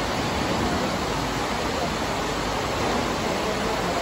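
Heavy rain pouring down and drumming on a metal sheet roof overhead, a steady, even rush.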